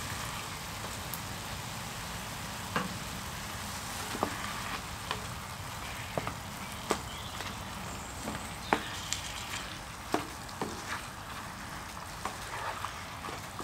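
Pork-and-beef mince, vegetables and freshly added chopped tomatoes sizzling steadily in a frying pan, with a wooden spatula stirring and giving a dozen or so irregular sharp taps and scrapes against the pan.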